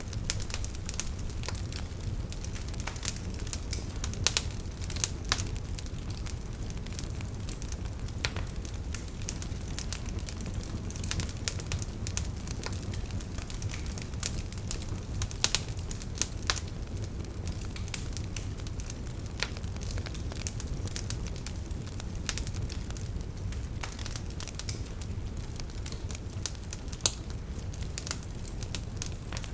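Wood campfire crackling, with many irregular snaps and pops from the burning firewood over a steady low rumble. A few sharper, louder pops stand out: about four seconds in, around the middle, and near the end.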